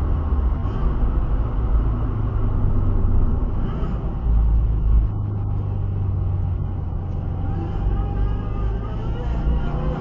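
Car engine running with a steady low rumble, swelling a little about halfway through and again near the end.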